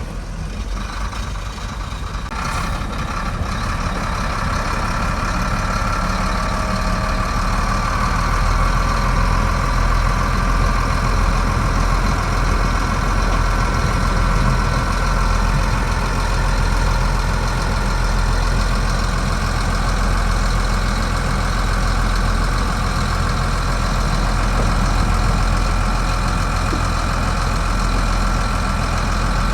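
Heavy diesel earthmoving machinery running steadily, its engine note with a thin steady whine on top.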